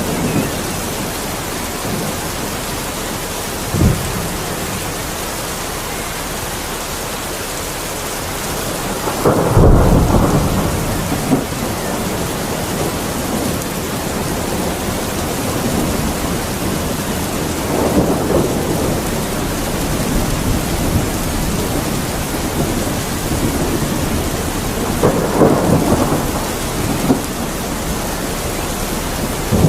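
Steady rain falling through a thunderstorm, with several rolls of thunder rumbling in and out. The loudest roll comes about a third of the way in, others around the middle and near the end, and there is a brief low thump early on.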